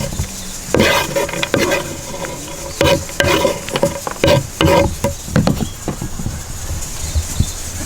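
A metal spoon stirring and scraping in a metal cooking pot, in irregular strokes that make the pot ring briefly, over sizzling from food frying in hot oil.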